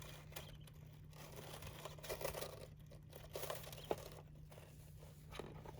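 Faint rustling and crinkling of loose bedding as small birds move about in it, with a single sharp click about four seconds in. A low steady hum runs underneath.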